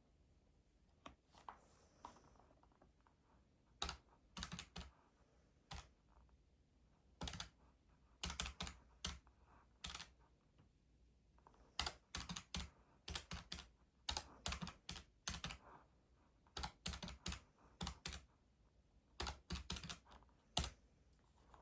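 Faint key presses in short, quick runs of clicks, typing on keys during bookkeeping study, with brief pauses between runs.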